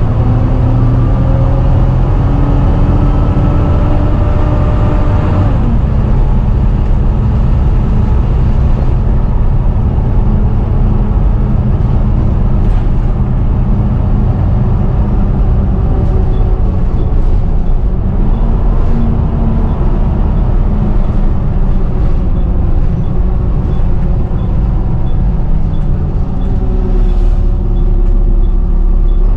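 Volvo B7TL double-decker bus's six-cylinder diesel engine and driveline running under way, with a loud vacuum-cleaner-like whine (a 'hoover') over the engine note. The whine climbs in pitch, drops abruptly about six seconds in, then runs on with smaller rises and falls as the bus changes speed.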